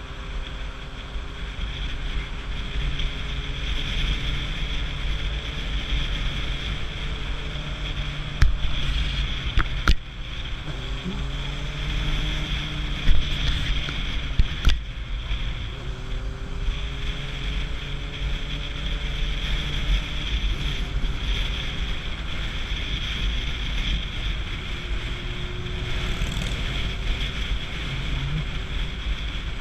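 Motorcycle riding in traffic under steady wind rush on the microphone, its engine note rising and falling in pitch as the revs change. A few sharp clicks stand out about a third of the way through.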